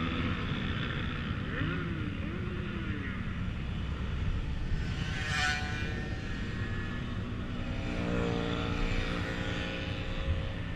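Motorcycle engines running steadily on the move, with wind and road rumble on the microphone; about eight seconds in, one engine's note comes up clearly.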